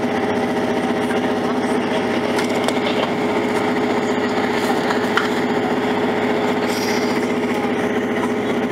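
A diesel multiple-unit train running, heard from inside the passenger saloon: a steady engine and running drone with a constant hum, and one sharp click about five seconds in.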